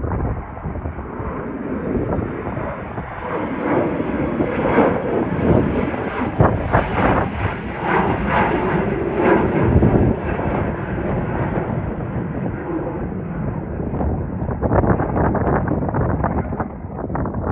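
Airliner passing close by, its engine roar swelling to a loud peak about halfway through with a crackling edge, then easing off as it moves away.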